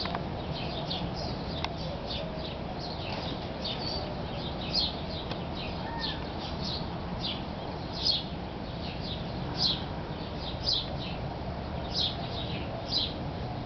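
Small songbirds chirping over and over: short, high, falling chirps several times a second, some louder ones about once a second, over a steady low background rumble.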